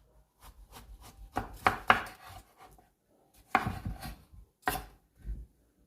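Large zucchini being cut in half with a knife: a few crunchy slicing strokes, each ending in a knock of the blade.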